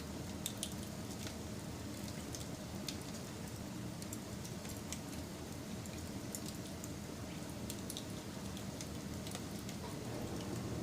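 Wood fire burning, with a steady low rushing noise under irregular sharp crackles and pops a few times a second.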